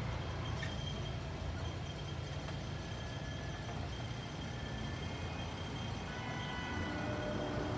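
Diesel commuter train rumbling low and steady as it moves away down the line, with faint thin high tones over it.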